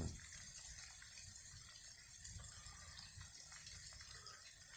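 Sleet falling: a steady hiss of ice pellets with faint ticks, over a low rumble.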